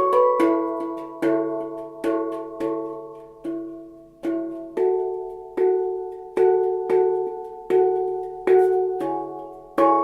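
Handpan in the Humming Bird D scale (D, E, F#, G#, A, B, C#, D), single notes struck by hand at a slow, even pace, each ringing out and fading before the next.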